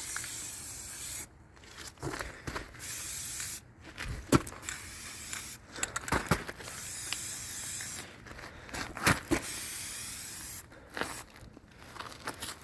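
Aerosol spray paint can hissing in several bursts of a second or two, with short pauses between them and a few light clicks.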